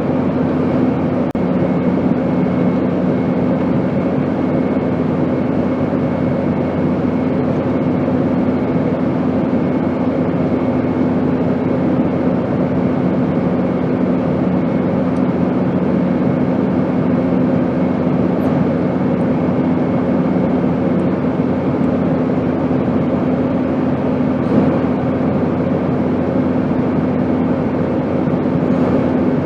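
Airplane noise used as white noise: an even, unbroken rush with a steady low hum running under it and no changes.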